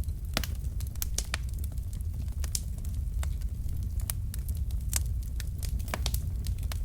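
Wood fire burning in a fireplace: irregular sharp crackles and pops from the burning logs, about two or three a second, over a steady low rumble of the flames.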